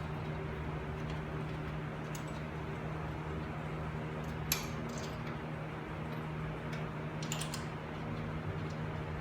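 A few light metallic clicks and taps from tools and parts being handled, the loudest about halfway through, over a steady low hum.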